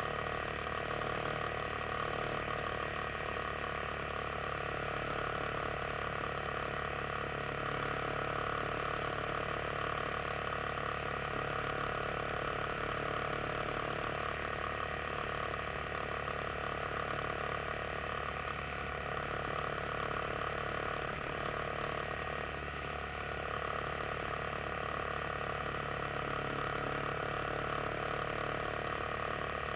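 Yamaha XT250 motorcycle's single-cylinder four-stroke engine running at a steady cruise, with a steady mechanical clatter.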